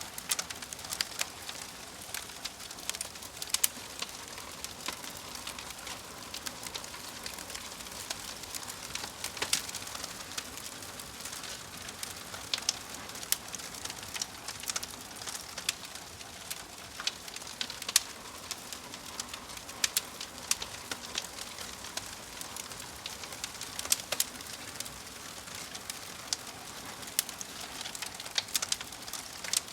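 Wood fire crackling: frequent sharp, irregular pops and snaps over a steady hiss.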